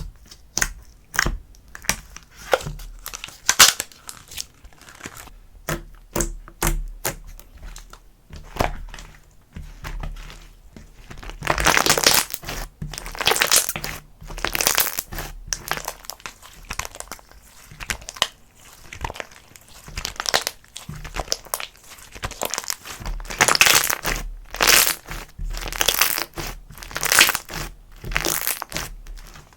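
Slime being squished and worked by hand, giving a string of irregular crackling pops and clicks, with denser, louder spells about twelve seconds in and again near the end.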